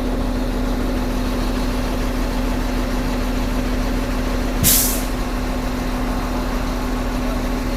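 A heavy engine idling steadily, with one short burst of hissing air about halfway through.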